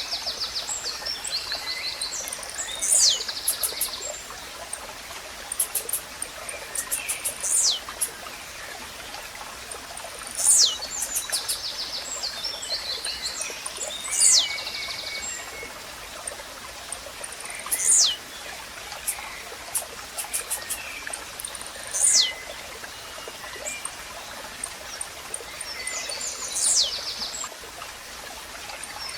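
Blue-black grassquit (tiziu) singing, a sharp high note that slides steeply down, repeated about every four seconds with short buzzy chirps between. Under it runs the steady hiss of running water.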